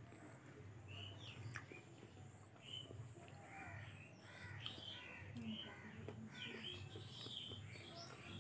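Faint sounds of eating chicken curry and rice by hand: chewing, with many short high chirp-like squeaks and a few sharp clicks, busiest in the second half.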